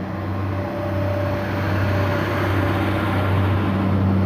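Diesel engines of a Class 142 Pacer and Class 150 multiple unit pulling out of the station, a steady low engine note growing louder as the train gets under way.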